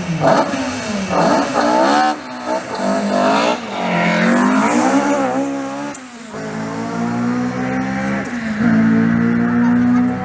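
Rally car engine revving hard at a stage start, its pitch swinging rapidly up and down, then climbing in rising sweeps as the car accelerates away. From about six seconds in, an engine holds a steady, constant note.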